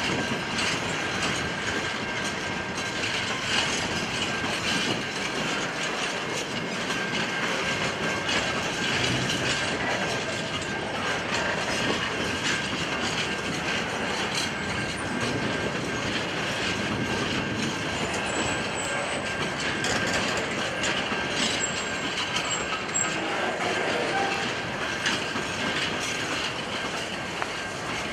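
A freight train of empty wheat hopper wagons rolling past, a steady noise of steel wheels on the rails with rapid clicks over the joints and a thin steady squeal from the wheels.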